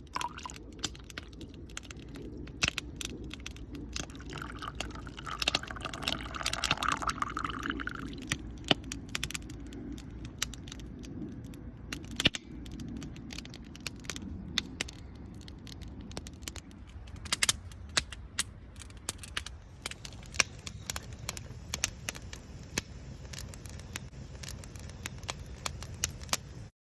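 Campfire crackling: irregular sharp pops and snaps over a low steady rumble, with the sound cutting off suddenly near the end.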